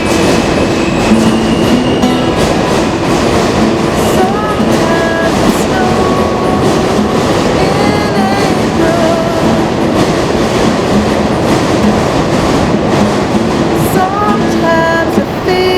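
Subway train running through the station, a loud, steady rumble and rattle of wheels on rails that covers the acoustic guitar playing underneath.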